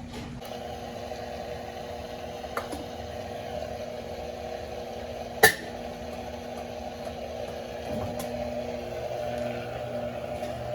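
Electrolux LF90 top-loading washing machine draining, its drain pump running with a steady hum. A single sharp click about halfway through, with fainter ticks before and after, and the hum shifts slightly near the end.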